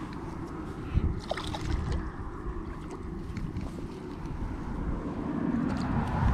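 Wind buffeting the microphone, a low uneven rumble, with a few faint clicks and a short high squeak about a second in.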